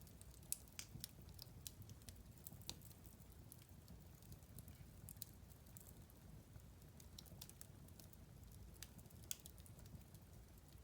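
Wood fire crackling in a fireplace: scattered sharp pops and snaps, the loudest about half a second in and another near the end, over a low steady rumble of the flames.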